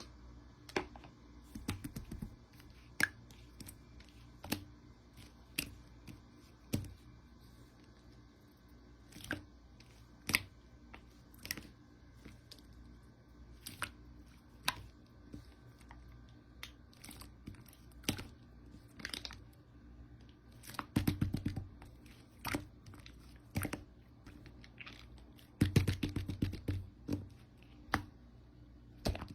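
Slime being squeezed and pressed by hand, giving scattered sharp clicks and crackles, with two runs of rapid popping clicks in the last third.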